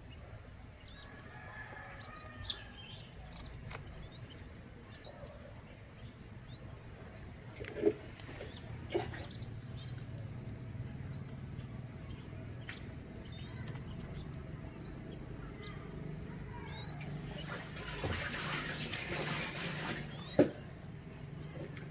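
A bird repeating short, high chirps, each rising then falling, about one a second. There are a few sharp knocks, and a burst of rustling near the end.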